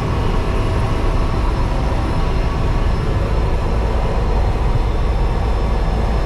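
Cessna Caravan's Pratt & Whitney PT6A turboprop running steadily at low idle after a good start, starter off: a heavy, even rumble with faint steady whining tones above it.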